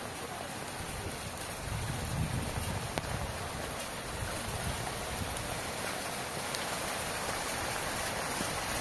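Steady rain falling on wet, muddy ground and puddles, with scattered individual drop ticks and an irregular low rumble underneath from about two seconds in.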